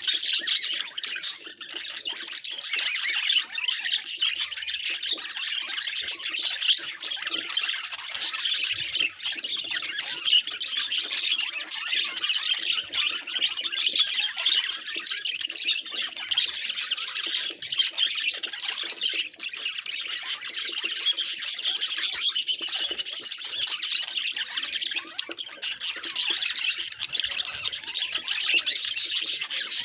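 Budgerigars chattering and warbling without a break, a dense run of high chirps and squawks.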